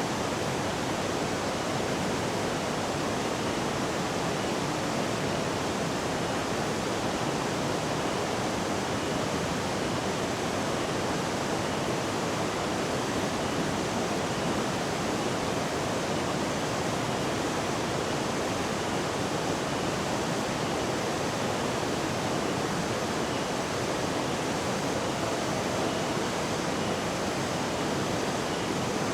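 Steady roar of a large waterfall, Curug Malela: an even, unbroken rush of falling water.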